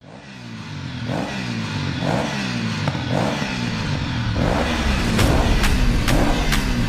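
Motorcycle engine revving up and down in a steady rhythm about once a second, fading in at the start. Sharp, evenly spaced beats join about five seconds in, roughly two a second.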